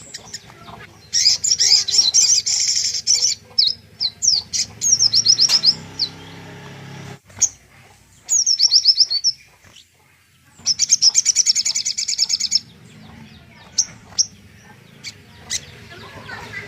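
Small songbird singing a tutor song: high, rapid trills in bursts of one to two seconds, between runs of quick down-slurred notes and single chips, with short pauses between phrases.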